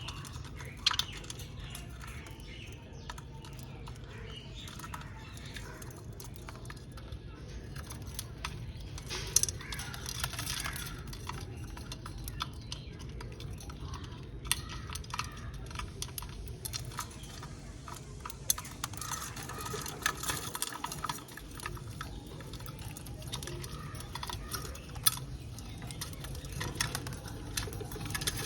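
Budgies cracking and husking sunflower seeds, with irregular sharp clicks, and soft chirping from the birds now and then. A steady low hum runs underneath.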